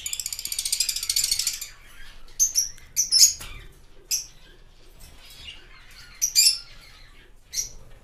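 Caged pet birds chirping: a fast rattling trill about a second and a half long at the start, then short shrill chirps and squawks scattered through the rest.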